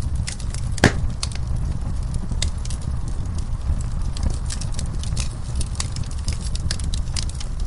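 Wood fire in a fireplace crackling: irregular sharp pops and snaps over a steady low rumble of the flames, with one louder pop about a second in.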